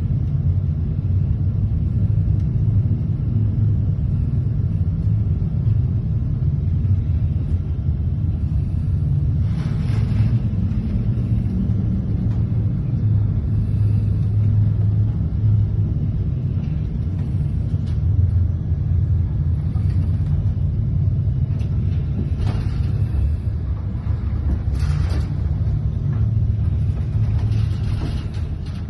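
Fishing trawler's engine and hull rumbling steadily, heard from the bridge while the ship pushes head-on into heavy seas. Brief rushing splashes of waves and spray breaking over the bow come about ten seconds in and three more times in the second half.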